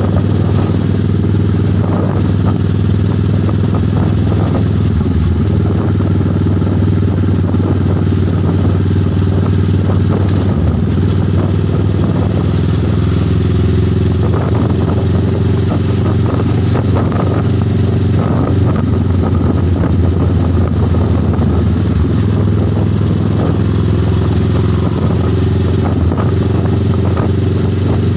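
Motorcycle engine running at a steady speed on the road, an even hum that neither revs up nor drops away.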